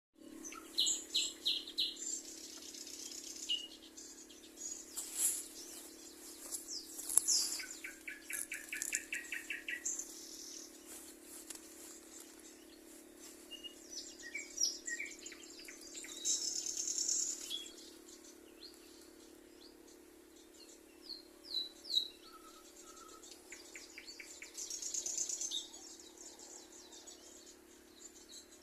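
Several songbirds chirping and calling, with short high notes throughout and a rapid repeated trill about eight seconds in, over a steady low hum.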